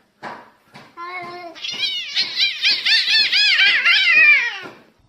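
A domestic cat calling: a few short sounds, then a loud, rapid run of quick meows, about four a second, each rising and falling in pitch. The run stops abruptly near the end.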